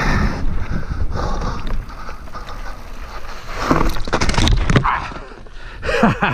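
Mountain bike ride noise: wind buffeting the microphone and tyres rumbling over the trail, then a cluster of short scraping and clattering sounds a few seconds in, with brief vocal sounds from the rider near the end.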